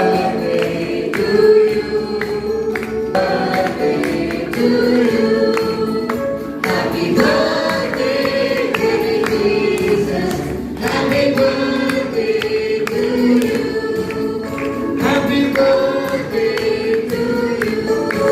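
Choir singing a Christmas hymn over instrumental accompaniment.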